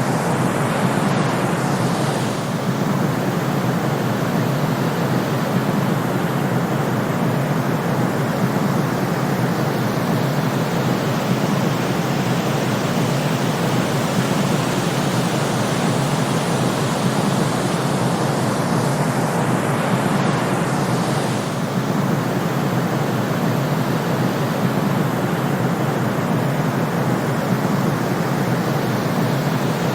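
Steady white-noise sleep track: an even, constant hiss weighted toward the lower and middle range, like pink noise. Its level dips slightly twice.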